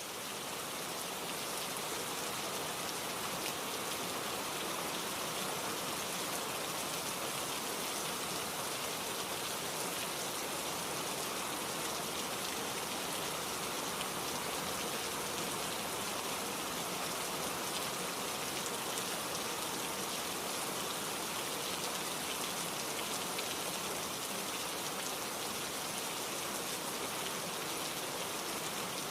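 Steady, dense rain falling, an even hiss of countless drops. It swells up during the first second, then holds steady.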